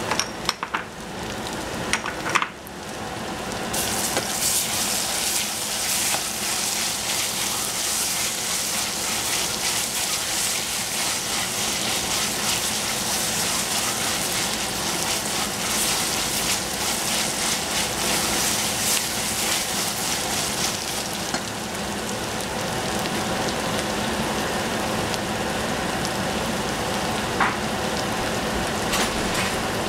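Carrots, onions and spices sizzling in a stainless steel saucepan over a gas flame, stirred with a wooden spoon. A few sharp clicks come in the first couple of seconds, then the sizzle grows louder and holds steady from about four seconds in.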